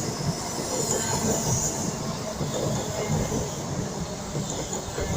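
HST (InterCity 125) high-speed train rolling into the platform: a steady rumble of wheels on rail with a high-pitched squeal.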